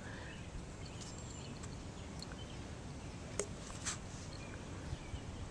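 Quiet outdoor background noise with two faint short clicks a little past the middle.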